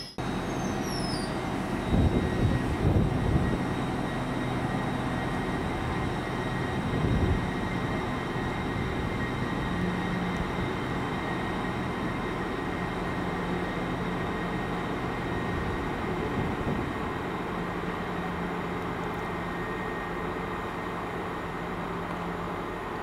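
Steady rumble of a train at the station, with a low steady hum and a few stronger low surges about two to three seconds in and again near seven seconds.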